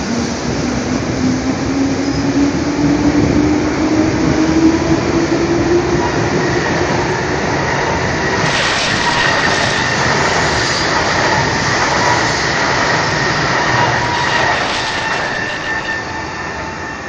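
JR East 205 series electric commuter train pulling away from a station platform: the traction motor hum rises steadily in pitch as it accelerates. Wheel and rail clatter and a high, steady wheel squeal join in as it gathers speed, and the sound fades over the last few seconds as the last cars pass.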